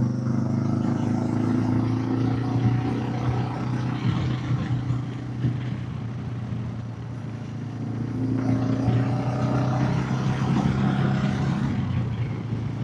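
Royal Enfield motorcycle engine running steadily under way, with wind and road noise. It eases off slightly mid-way and rises again about eight seconds in.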